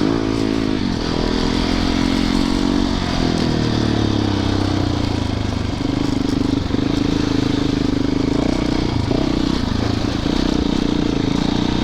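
Yamaha YZ450FX dirt bike's four-stroke single-cylinder engine running under way, its pitch rising and falling with the throttle before holding a steadier, higher note over the second half, with a few brief dips.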